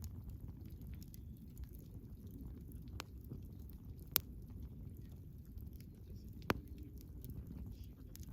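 Wood campfire burning with a steady low rumble and frequent small crackles, and sharp pops about three, four and six and a half seconds in, the one just after four seconds the loudest.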